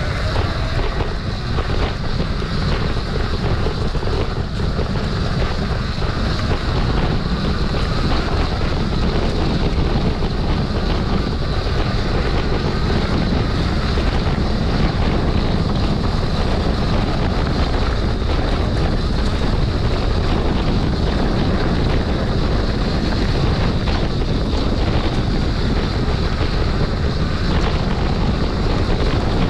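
Steady wind buffeting the microphone: a continuous low rumble with a hiss above it that keeps a constant loudness throughout.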